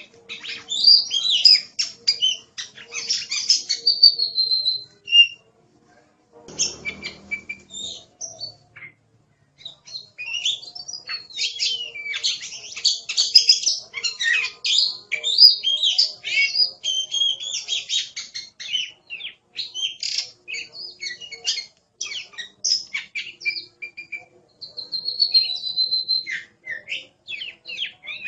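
Oriental magpie-robin singing in quick bursts of varied whistles and chattering notes, with short pauses between phrases and a couple of longer held trills. A brief low rumbling noise comes about seven seconds in.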